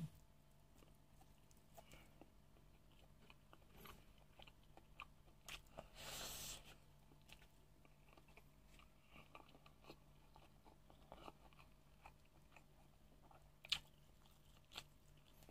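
Faint close-up mouth sounds of a person chewing mutton, with scattered soft clicks and crunches. A brief hiss comes about six seconds in, and a single sharp click near the end.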